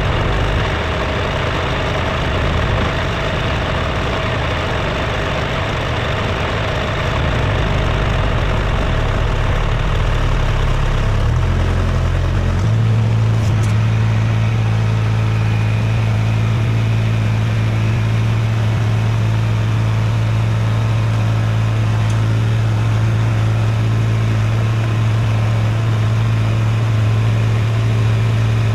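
An engine running steadily; about a third of the way in its note shifts and settles into a steady low hum.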